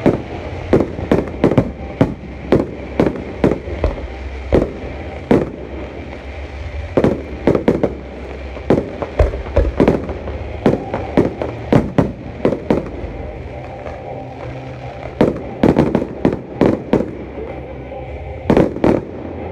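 Fireworks display: rapid volleys of sharp bangs from aerial shells and multi-shot cakes, coming in clusters with brief lulls between them, over a steady low rumble.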